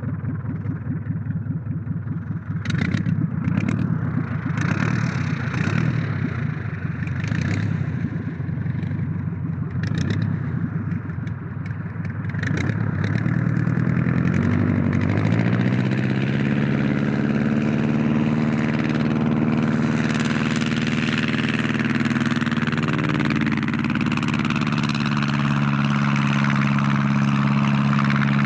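Blériot single-prop monoplane's engine running rough and uneven with sharp pops at low throttle while taxiing, then opening up about halfway through, its pitch rising into a steady, louder full-power note for the takeoff run.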